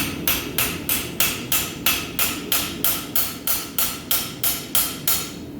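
Blacksmith's hammer striking hot steel on an anvil in quick, even blows, about three or four a second, which stop shortly before the end. These are light smoothing blows on the bar at a dull red heat, the last finishing work before it cools.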